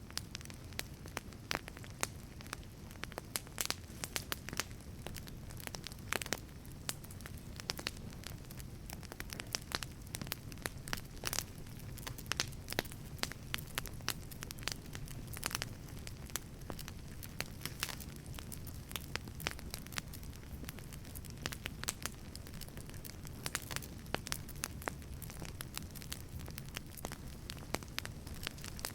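Wood fire burning in a wood-fired pizza oven: steady crackling with frequent sharp, irregular pops over a low rumble of flame.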